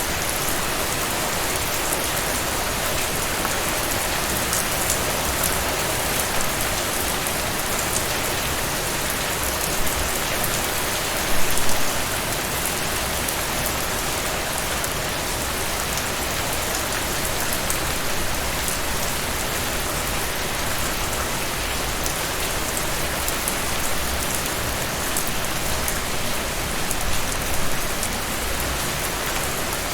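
Heavy rain falling steadily, a dense even hiss of drops with fine pattering on top. It swells briefly louder about eleven seconds in and again near the end.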